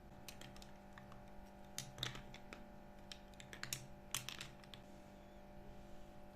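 A run of light, irregular clicks and taps over a steady low hum, dying away about halfway through.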